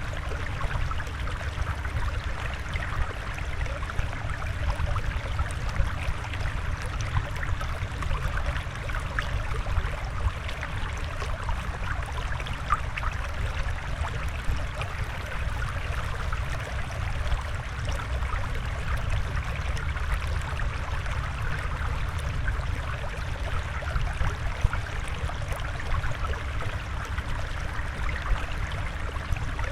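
Flowing water running steadily with fine trickling, over a deep rumble, like a fish tank's water flow.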